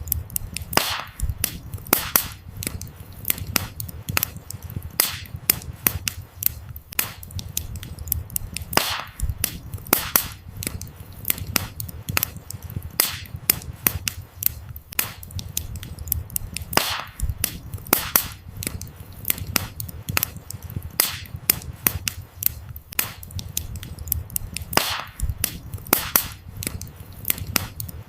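Wood fire burning: dense, irregular crackling with frequent sharp pops of burning firewood, some much louder than others, over a steady low rumble of the flames.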